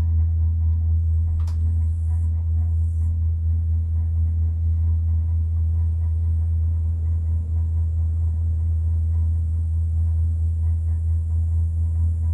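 Steady low rumble and hum of a gondola cabin travelling along its cable.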